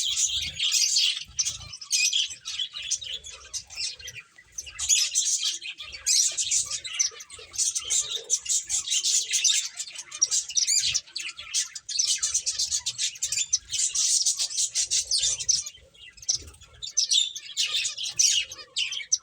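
Several pet finches chirping rapidly and continuously in high, overlapping calls, with brief lulls about four seconds in and near the end.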